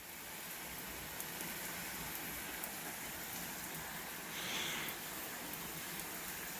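Steady rain falling, an even hiss with faint scattered drop ticks, swelling briefly louder about four and a half seconds in.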